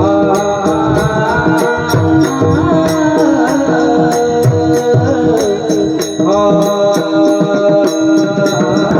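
A singer's voice with pakhawaj drum accompaniment over a steady held drone tone. The voice is sweet and honey-like, and the drumming is strong and continuous.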